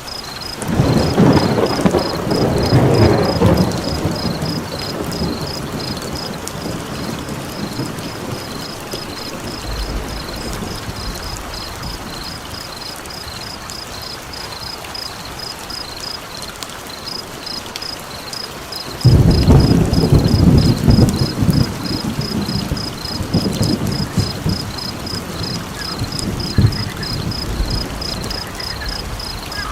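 Thunder rumbling twice, about a second in and again just past the middle, each rumble lasting a few seconds, over steady rain. An even, high-pitched chirping pulses in the background.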